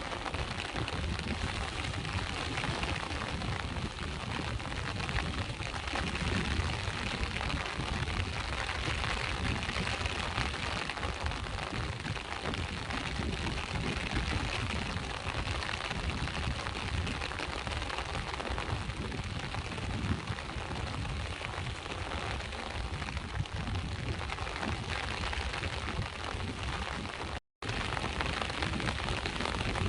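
Steady rain with sea waves, a continuous hiss of rain over a low rumble of surf. The sound cuts out for a split second near the end.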